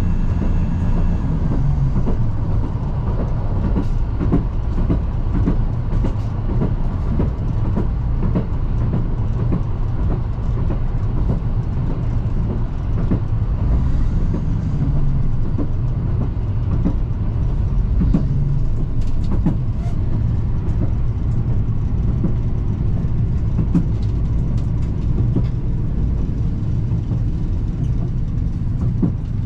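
Metre-gauge diesel railcar of the Chemins de Fer de Provence running along the line, heard from the cab. There is a steady low running rumble with scattered clicks and knocks, and a high whine fades out about a second in.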